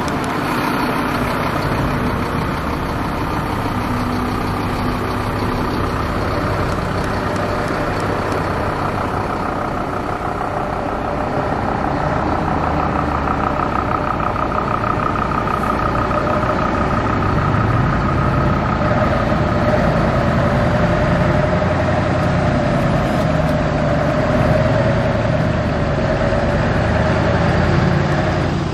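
Truck engine idling steadily, with a thin steady whine over the running.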